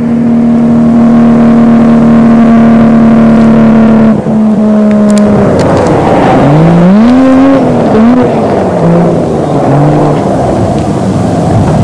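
Race-prepared Volvo 122 Amazon wagon's engine, held at steady high revs. About five seconds in the revs drop sharply, then rise and fall a couple of times as the car slows at the end of a run with its braking parachute out.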